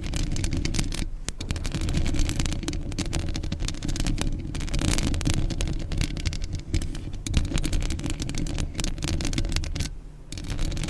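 Stones rubbed and ground together close to the microphone: a continuous gritty scraping made of many small clicks over a low rumble, pausing briefly about a second in and again near the end.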